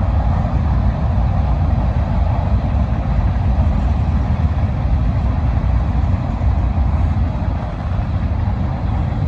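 Freight cars of a long mixed freight train rolling past, a steady low rumble of steel wheels on rail.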